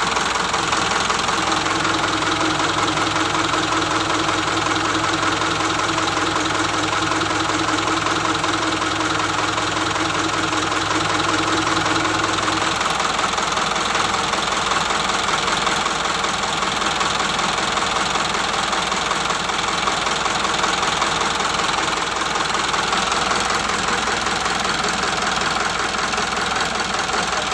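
Turbocharged diesel engine of a 2007 Isuzu Elf truck running steadily at idle, which the seller calls crisp and in good condition. A steady low hum over the engine stops about halfway through.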